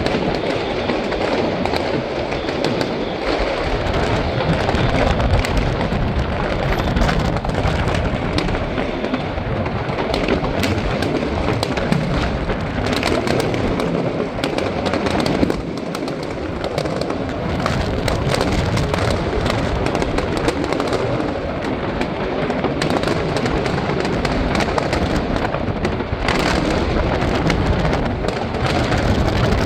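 Aerial fireworks going off in a continuous barrage: dense, overlapping booms and crackling bursts with no pause between them.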